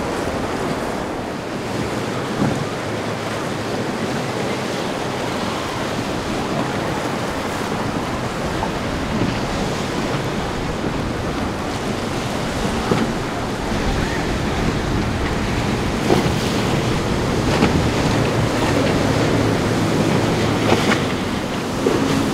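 Rough water and breaking waves, with wind buffeting the microphone and a few sharp knocks. A boat engine hum rises under it near the end.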